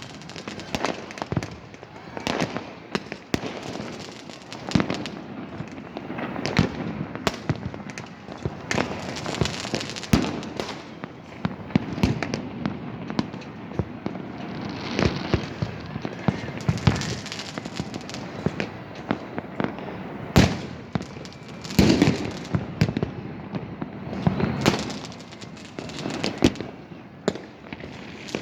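Fireworks and firecrackers going off continuously across a city: many irregular sharp bangs and crackles over a steady din of distant bursts, with a few louder reports about 20 and 22 seconds in.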